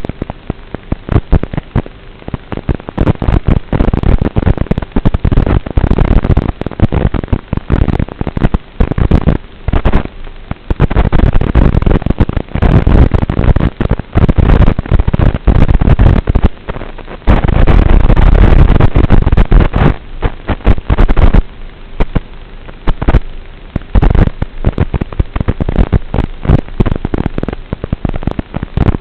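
Onboard camera microphone riding on an HPI Savage RC monster truck in a snowstorm, picking up dense irregular crackling pops and thumps from wind and jolting. Many bursts distort near full level, with a few quieter stretches between them.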